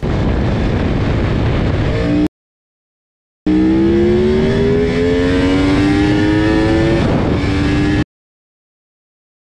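Yamaha R1 sportbike with a Termignoni exhaust accelerating hard at full throttle: a loud rush of wind over the engine, whose note rises steadily through a gear. The sound cuts abruptly to silence about two seconds in, returns, and cuts off again near the end.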